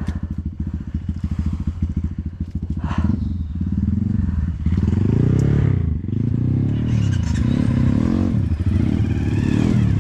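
Honda CRF150L trail bike engine running with an even low chugging beat, then revved up and down repeatedly from about halfway through as the throttle is worked.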